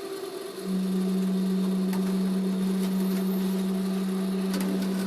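Equipment hum aboard a Tokyo Metro 06 series train: a steady low hum sets in suddenly about half a second in and holds at one unchanging pitch over a fainter higher hum, with a few faint clicks.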